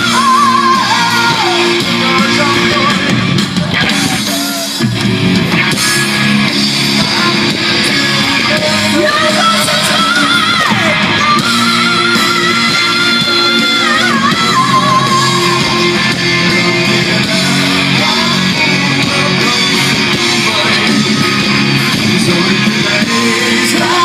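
Live hard-rock band playing loudly: a lead electric guitar line with bends and vibrato over rhythm guitar, bass and drums.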